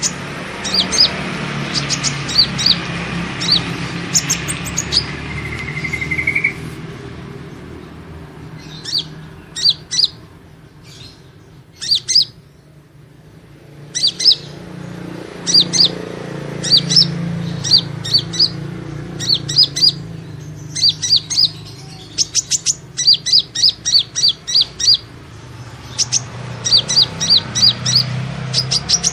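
Sunbird (kolibri ninja) calling: runs of rapid, high, sharp chirps broken by short pauses, with a brief rising trill about six seconds in, played as a lure call to draw the species in. A steady low hum runs underneath.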